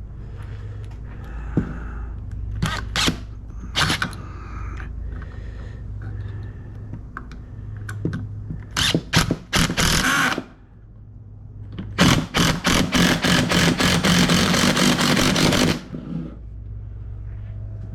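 Power drill at work: a few knocks and short runs, then a run of about four seconds near the end with a fast, even clicking of about five strokes a second.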